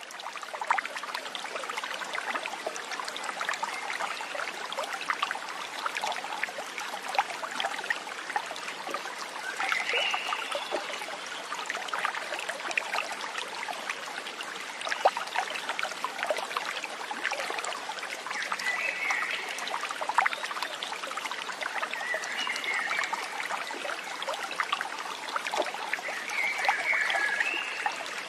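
Stream water trickling and babbling steadily, full of small splashes, with a few brief higher-pitched calls over it, about four in all.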